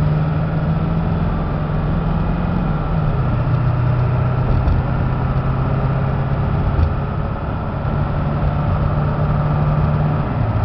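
Ford F350's 7.3-litre Power Stroke V8 turbodiesel running under way as the truck gets up to road speed. The steady engine note drops in pitch about three seconds in and again near the end as it shifts up through the gears.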